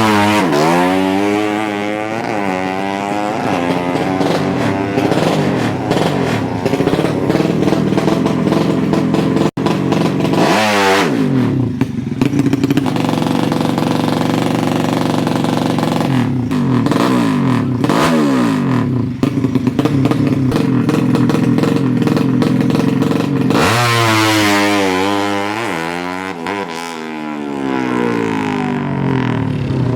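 Drag bike motorcycle engine revved hard again and again, its note swooping up and down in blips around the start, near 11 s, 16 to 19 s and 24 to 28 s. Between the blips it holds a high, steady note. The sound cuts out for an instant about 9.5 s in.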